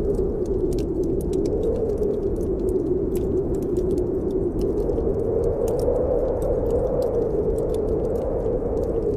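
Wood fire crackling with many small, sharp, irregular pops, over the steady howl of snowstorm wind whose pitch slowly rises and falls.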